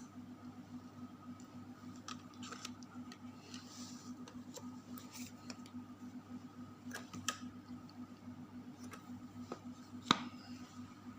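Scattered light clicks and small handling noises over a steady low hum, with one sharper click about ten seconds in.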